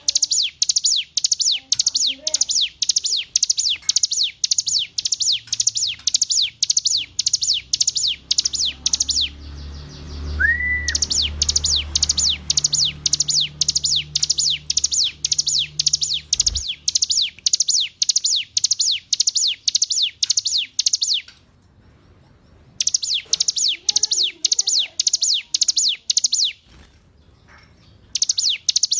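Ciblek gunung (a prinia) singing: long trains of rapid, high, downward-slurred chirps, about four a second, broken by a few short pauses.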